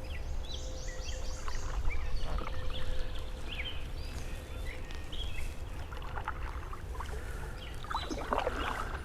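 Several small birds chirping and calling in quick short notes, with a canoe paddle dipping and splashing in the water now and then, loudest about eight seconds in.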